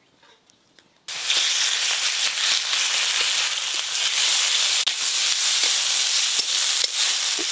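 Hot oil sizzling steadily as diced potatoes fry with bay leaf and dried red chilli in a wok, stirred with a steel spatula. The sizzle starts abruptly about a second in, after near silence.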